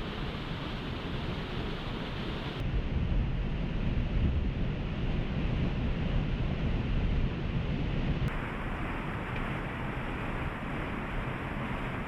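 Steady rush of a waterfall. It changes abruptly twice: for several seconds in the middle it turns deeper and louder, then becomes brighter again.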